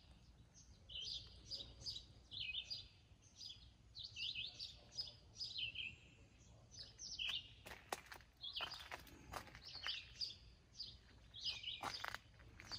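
Songbirds chirping and singing outdoors: short high notes repeated in quick phrases. In the second half there are also a few sharp ticks.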